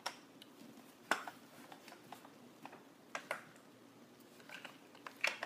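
Scattered sharp clicks and light knocks of hard plastic being handled: about half a dozen separate taps, the loudest about a second in and a pair near the end.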